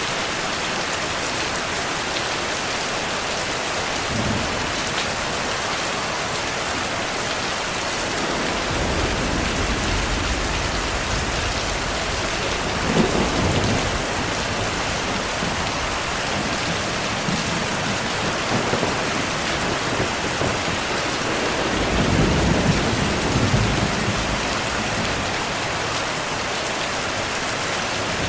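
Steady heavy rainfall with thunder rumbling. A long roll builds about a third of the way in and peaks near the middle, and another rumble comes about three quarters of the way through.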